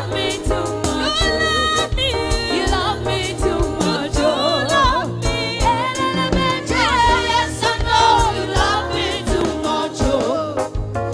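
Gospel worship song performed live: a singer's sliding, ornamented vocal lines over a band with a steady drum beat and bass.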